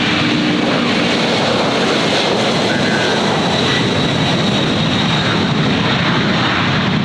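Airliner engines running loud and steady, a broad even noise with a faint high whine.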